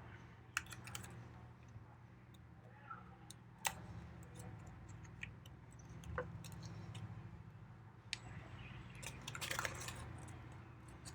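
Folded paper units being handled and pressed together: faint scattered taps and clicks, with a short burst of paper rustling about nine seconds in, over a steady low hum.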